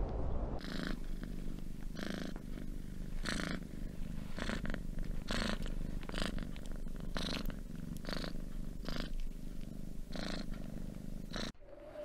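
Domestic cat purring, the purr swelling and easing in a steady rhythm about once a second.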